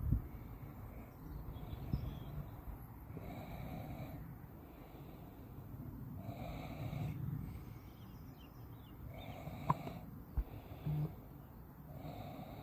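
A person breathing heavily close to the microphone, about one breath every three seconds, with a couple of sharp clicks near the end.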